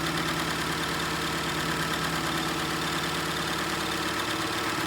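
Overlock serger sewing machine running at a steady high speed, an even mechanical hum.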